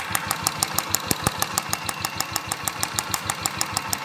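Royal Enfield Classic BS4 single-cylinder engine idling with a sharp, regular ticking about six times a second. The tick comes from the evaporative purge valve, not from the cam or the hydraulic tappets.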